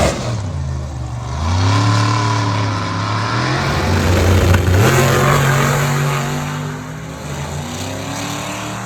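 Drag-racing street car engine at full throttle accelerating down the strip. Its pitch climbs in steps, then it grows fainter over the last few seconds.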